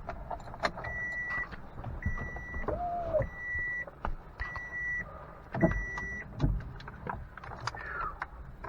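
Truck's warning chime sounding five steady beeps, about one a second, over scattered knocks and clicks inside the cab.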